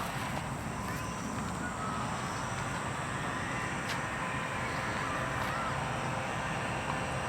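Steady outdoor background noise with a few faint, short bird calls and a single click about four seconds in.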